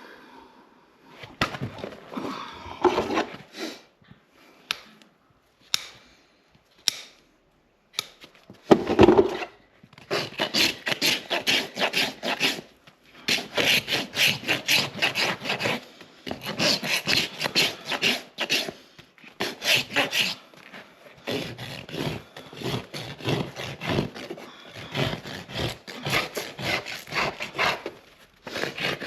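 Farrier's hoof rasp filing a horse's hoof wall in quick back-and-forth strokes, several strokes a second in long runs with short breaks. Before the rasping, about the first nine seconds hold scattered short scrapes and clicks and one heavier thump.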